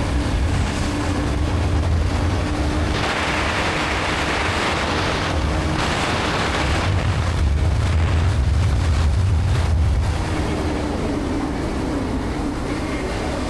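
Wind buffeting the microphone of a moving motorbike, with a gusty rumble and a rush that swells for a few seconds. A faint steady engine hum runs underneath.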